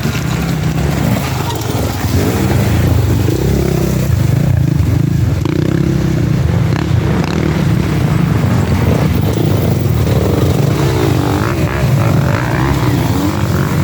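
Enduro dirt bike engines revving, the pitch rising and falling again and again.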